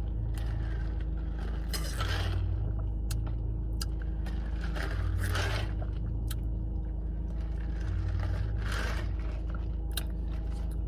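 Steady low rumble of a car cabin with the engine running, broken by a few bursts of rustling or scraping and several sharp clicks.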